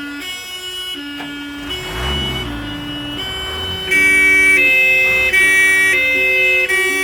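Two-tone ambulance siren alternating between a high and a low note, each held about three-quarters of a second. A brief low rumble comes about two seconds in, and the siren gets much louder about four seconds in.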